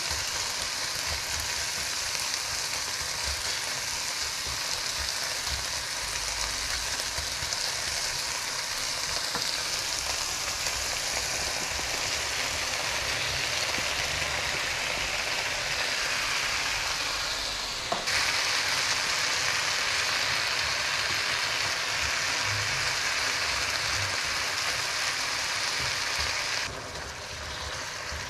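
Spinach and sliced mushrooms sizzling as they sauté in a frying pan, a steady hiss with a spatula stirring through it. About two-thirds of the way through there is a sharp knock, after which the sizzle is louder; shortly before the end it drops quieter.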